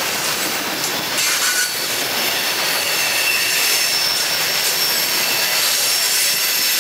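Coal hopper cars rolling past on steel rails: a steady rush of wheel-on-rail noise. Faint high-pitched squeals from the wheels come and go.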